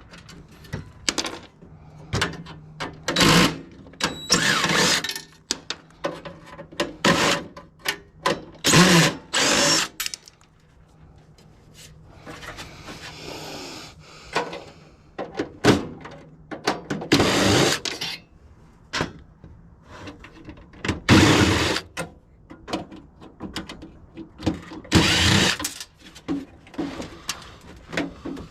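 Power drill run in short bursts of about a second, several times, with separate knocks and clatter of metal parts between them.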